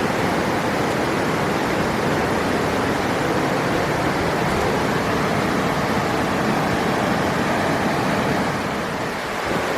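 Rushing river water: a steady, loud wash of noise that eases slightly near the end.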